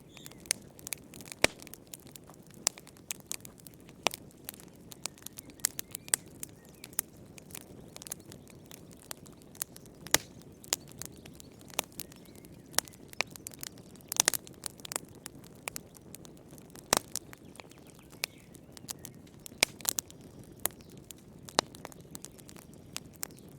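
Wood fire burning in a fireplace: firewood crackling with irregular sharp pops and snaps, several a second, a few much louder than the rest, over a soft low rush of flame.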